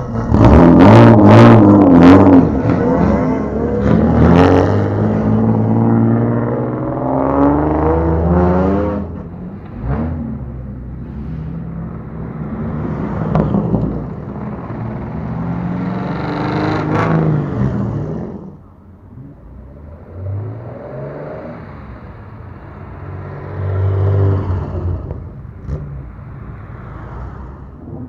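Modified classic Japanese cars' engines revving again and again as they drive off, the pitch rising and falling with each blip of the throttle. It is loudest in the first couple of seconds and quieter in the last third.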